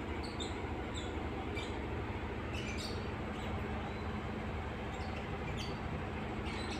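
Short high chirps of small birds, several scattered irregularly through a few seconds, over a steady low hum and hiss.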